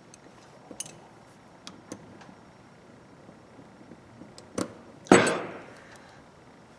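Small hand tools and ratchet parts clicking against each other while a small socket ratchet is being taken apart, then one louder knock of a tool or part set down hard about five seconds in, ringing briefly as it fades.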